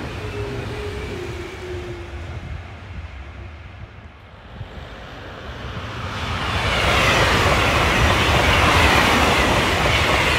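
A double-deck regional electric train passing and fading away, with a steady tone over the first two seconds. An Italo high-speed train then approaches and rushes past from about six seconds in: a loud rush of wheels and air, with a falling pitch.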